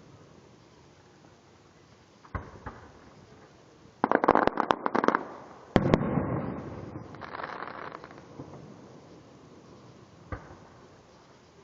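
Fireworks going off: two small pops, then a rapid run of crackling pops about four seconds in. A loud bang follows whose echo dies away over a couple of seconds, and a last single pop comes near the end.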